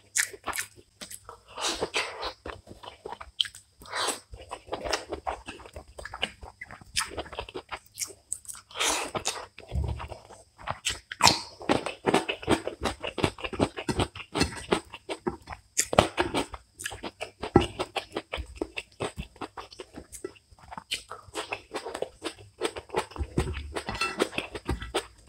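Close-miked chewing and wet mouth clicks of a person eating rice and curry by hand, in many short, irregular smacks.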